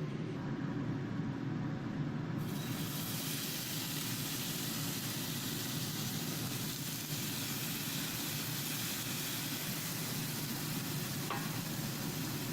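Food starts sizzling in a frying pan about two seconds in and keeps up an even hiss, over a steady low hum.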